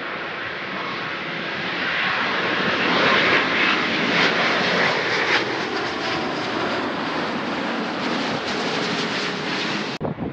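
Jet airliner passing low overhead. Its engine noise swells to a peak a few seconds in, stays loud, and cuts off suddenly near the end.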